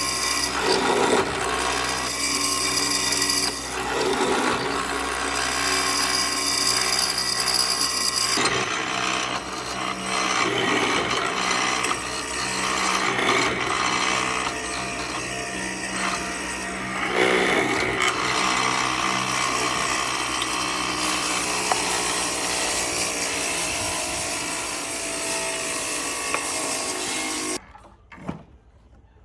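Power tool running against wood, a steady motor hum under continuous grinding and rubbing noise, which stops abruptly near the end.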